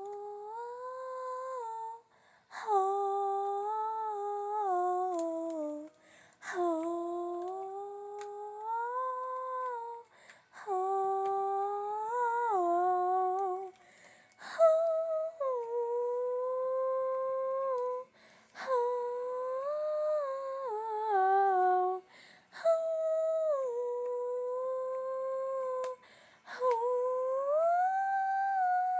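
A girl's voice humming a wordless melody in phrases of three to four seconds, with a short breath between each.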